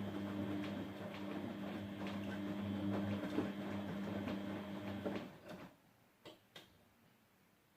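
Grundig GWM4762 washing machine's motor turning the drum at a steady low speed during a rinse, a steady hum with light clicks of the laundry tumbling. It stops about five seconds in, and a few faint clicks follow.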